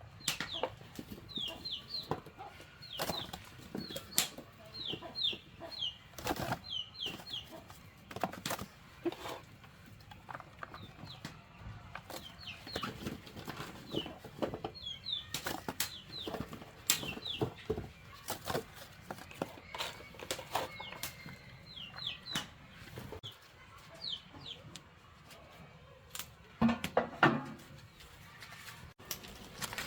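Chickens: repeated short, high, falling peeps, often in pairs, over scattered clicks and taps, with a louder cluster of knocks near the end.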